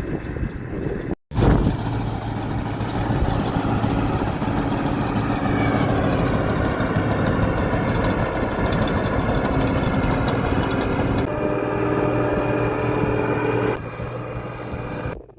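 Combine harvester running steadily with a constant engine hum, cut off briefly about a second in and a little quieter near the end.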